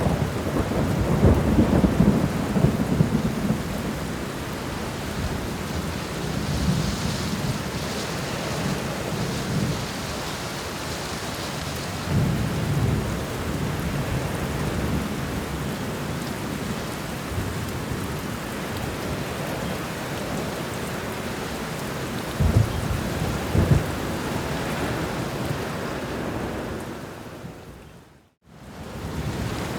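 Steady heavy rain with several low rolls of thunder. Near the end the sound fades out briefly to silence and then comes back.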